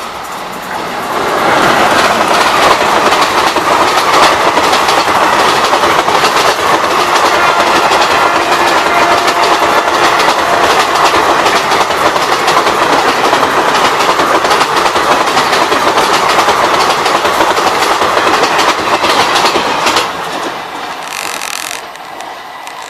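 Electric-hauled Indian Railways express train passing at speed close by, its coaches' wheels clattering rhythmically over the rail joints. The noise builds over the first two seconds, holds steady, and drops off sharply about 20 seconds in.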